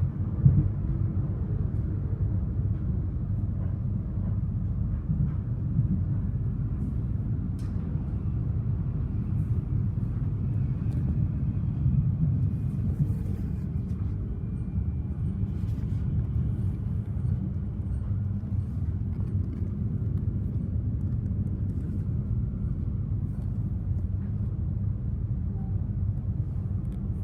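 Steady low rumble of a Siemens electric suburban train running along the track, heard from inside the carriage.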